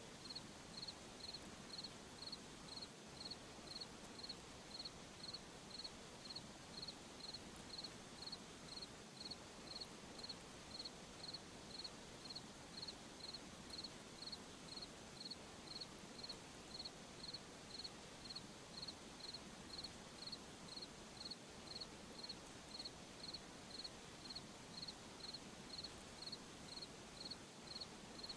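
A cricket chirping at night, a high-pitched chirp repeated evenly about twice a second, faint over a soft steady hiss.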